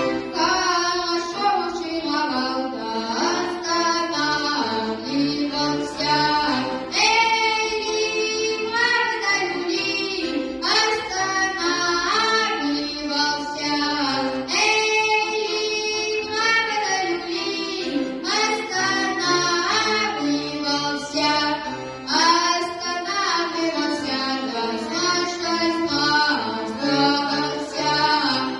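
A boy singing a Russian folk song in phrases over steady instrumental accompaniment.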